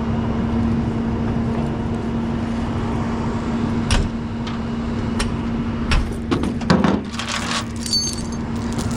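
Engine idling with a steady hum, with a few sharp metal knocks and a jangle of metal near the end.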